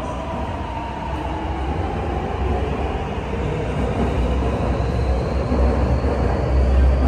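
Metro train pulling away from the station, a heavy rumble of wheels on rail growing louder as it gains speed. A thin whine rises steadily in pitch in the second half, typical of the traction motors accelerating.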